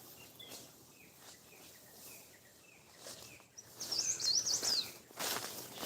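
Birds chirping: a run of faint short chirps, then a louder, quick warbling phrase of rapidly rising and falling notes lasting about a second. Near the end, a burst of rustling.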